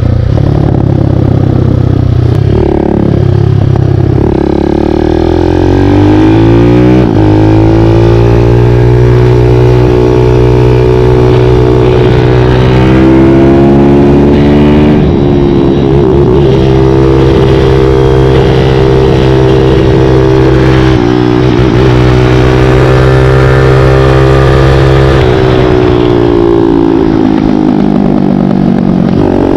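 Kawasaki KLX dirt bike with a 178 cc big-bore kit, its single-cylinder four-stroke engine under way. It revs up, holds steady speed for long stretches with a few sudden pitch changes as it shifts, then eases off and picks up again near the end.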